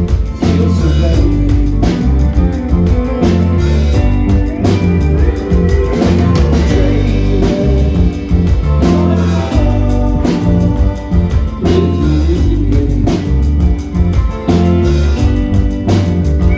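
Live rock band playing a song: guitars, bass and drums at a steady beat, with a voice singing over them.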